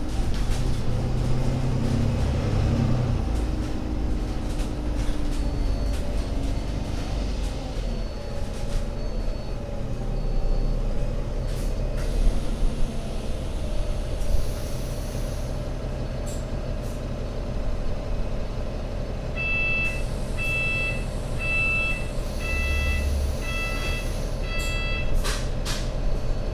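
Alexander Dennis Enviro500 MMC Euro 6 double-decker bus engine running steadily at low revs. Short bursts of compressed-air hiss come about 14 s and 23 s in, and a run of about seven evenly spaced electronic beeps sounds near the end.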